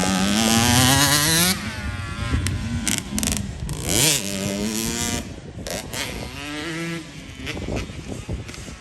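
Motocross dirt bike engines revving hard, pitch climbing and dropping again and again as the bikes accelerate and shift. Loudest in the first second and a half.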